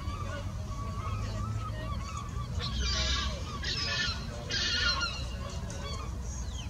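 Birds calling: three loud, harsh calls about a second apart in the middle, with fainter short calls around them, over a low steady background rumble.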